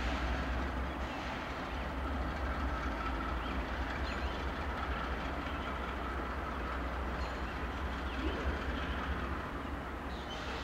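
Freight train led by diesel locomotives rolling slowly, with a steady low engine rumble under the noise of the wheels and cars.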